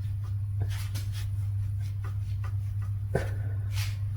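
Faint, irregular metallic clicks as a piston in a Suzuki J20A 2.0-litre four-cylinder engine is rocked in its bore by hand, showing the play of piston slap that is taken for the source of the engine's knocking. A steady low hum runs underneath.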